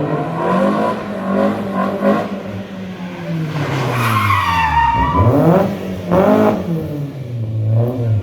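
A rally car's engine revving hard, its pitch falling and rising several times as the car is thrown into slides. Tyre squeal is heard around the middle.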